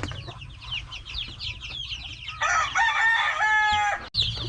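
Native chicken chicks peeping continuously in rapid high falling chirps. Halfway through, a rooster crows loudly for about a second and a half, ending in a short break in the sound.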